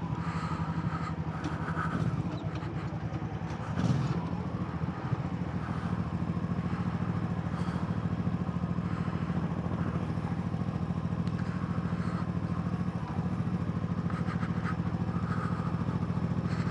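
Yamaha MT-07's parallel-twin engine running at a steady, even pitch as the motorcycle cruises slowly, with one brief knock about four seconds in.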